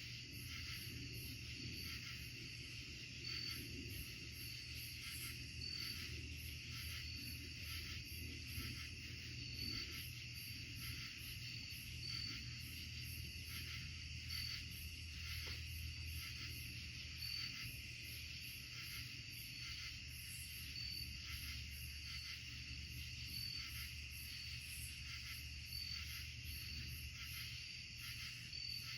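Night insect chorus: a steady high trilling, with a short chirp repeating about every second and a quarter and a low steady hum underneath.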